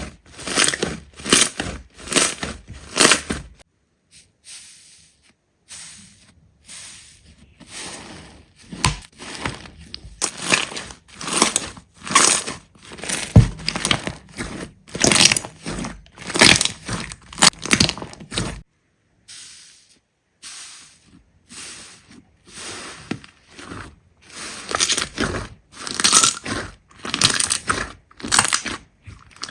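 Slime being squeezed and pressed by hand, giving a quick series of short, sharp pops, about two a second. The pops stop briefly twice, near the start and about midway.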